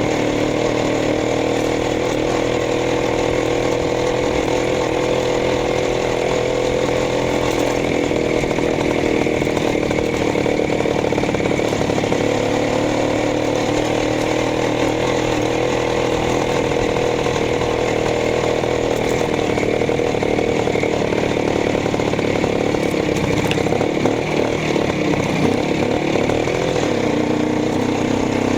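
Minsk motorcycle's single-cylinder two-stroke engine running at a steady speed, with a brief rise and fall in engine speed near the end.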